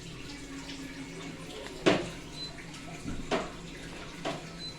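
Daikin mini split air conditioner running with a steady low hum and an even hiss of air. Three sharp knocks come through it, about two, three and a half and four and a half seconds in.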